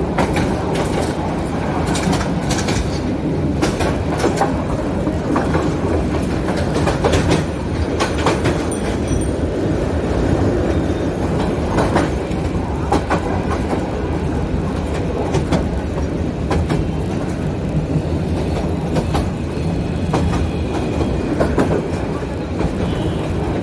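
Train running along the rails: a steady rumble with irregular clacks.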